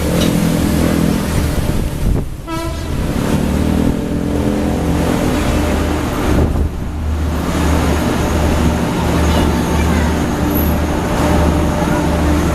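Diesel train running past, a steady low engine throb that dips briefly twice.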